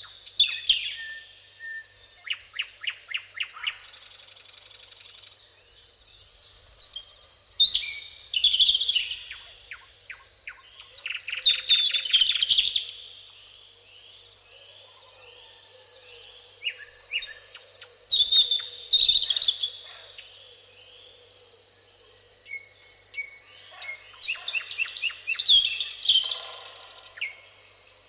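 Songbirds singing in a meadow, bursts of rapid trills and chirps coming every few seconds, over a steady high-pitched insect trill.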